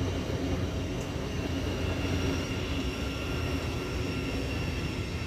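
Thameslink electric multiple unit moving along the platform: a steady rumble with a faint, steady high whine over it.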